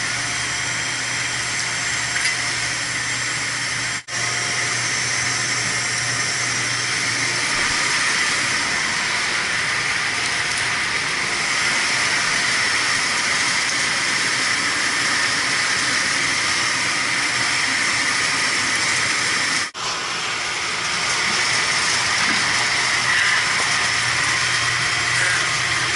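A steady hissing noise, dropping out briefly twice, about four seconds in and again near twenty seconds.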